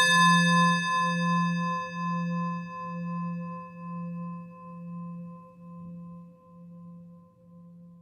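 A singing bowl ringing out from a single strike: a low hum with a slow wobble and several bright higher overtones, fading steadily until it dies away near the end.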